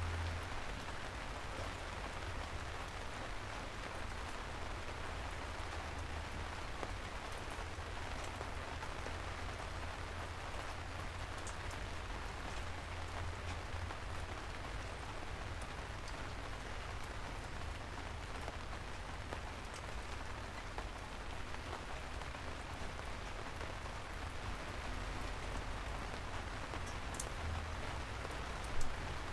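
Steady rain falling on a surface, with scattered drop ticks over a low rumble. There is one brief louder knock near the end.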